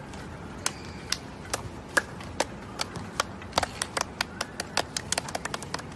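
A series of sharp clicks or taps, sparse at first and quickening to several a second in the second half.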